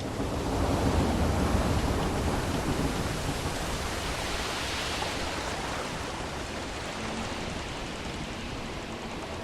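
Sea waves washing in a steady rush, swelling with a low surge about a second in and a hissing wash a few seconds later.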